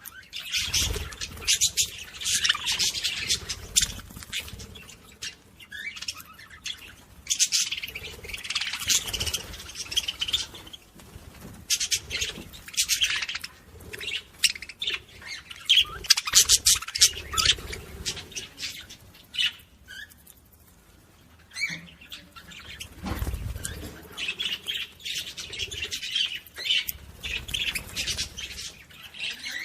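Budgerigars chattering and warbling in rapid, high chirps, coming in bursts with short pauses between them.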